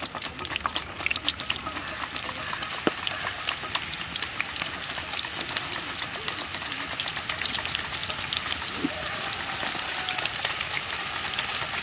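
Raw Nendran banana slices frying in hot coconut oil in a kadai, giving a dense, steady sizzling crackle.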